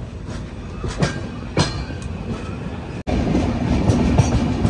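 Passenger train coach rolling along the track, heard from an open window: a steady rumble with a few sharp clacks of the wheels. About three seconds in it turns abruptly louder, with a steady low hum under the rumble.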